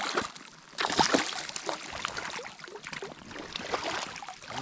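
Water splashing and sloshing at close range, in irregular small bursts.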